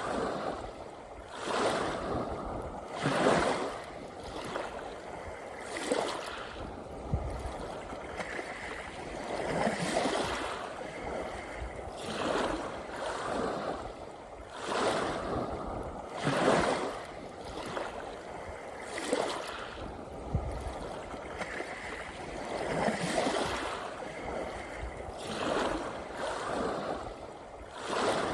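Small sea waves washing onto the shore, each one swelling and falling away, one every two to three seconds.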